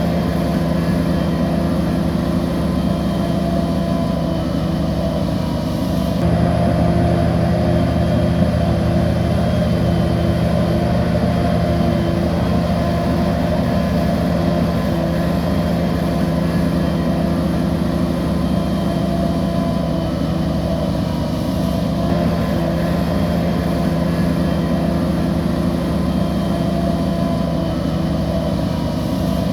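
Heavy diesel engine of a working bulldozer running steadily. Its note steps up and grows louder about six seconds in, and shifts again near the twenty-two-second mark.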